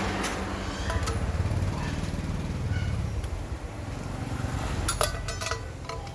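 A low, rapid mechanical rattle and rumble, with a few sharp metallic clicks and clinks about five seconds in.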